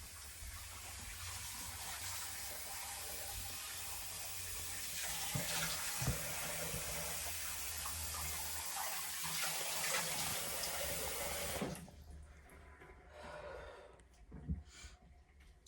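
Water tap running into a sink in a small room, a steady rushing that cuts off suddenly about twelve seconds in as it is turned off, followed by a few faint knocks.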